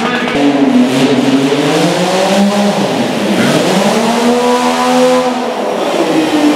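Modified pulling lawn tractor's three-cylinder Yamaha street-bike engine revving hard. Its pitch climbs, dips about three seconds in, climbs again, then falls off near the end.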